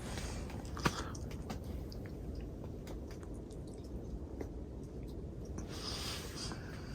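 Wood fire crackling in a tent stove: scattered sharp pops over a steady low rumble, with one louder pop about a second in.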